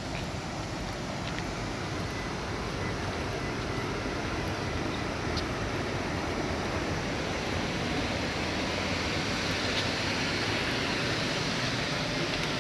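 Waterfall in heavy, swollen flow after a typhoon, a steady rushing roar of falling water that grows slightly louder over the first few seconds.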